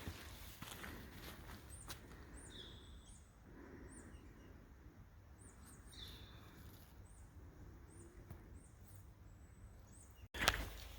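Faint, high-pitched bird chirps, short calls repeated about once or twice a second over a quiet woodland hiss. Near the end a louder rustling starts abruptly.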